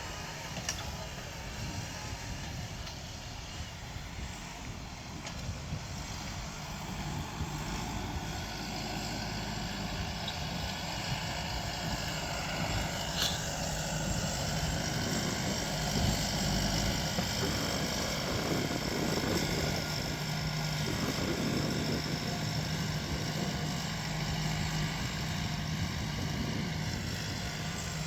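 Deutz-Fahr 5125G tractor's diesel engine running steadily while the tractor works, growing somewhat louder through the first half.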